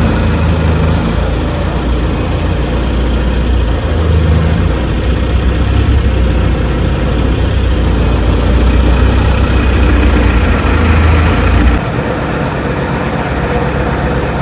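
Longtail boat engine running steadily with a loud, deep drone and broad rushing noise. About twelve seconds in, the low drone drops away and leaves mostly the rushing noise.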